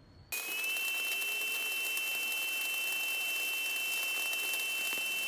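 Stick-welding arc from a 1/8-inch E7018 rod at 120 amps, struck about a third of a second in and then burning as an even, steady crackling hiss with a faint steady high tone, as a stack bead is run overhead.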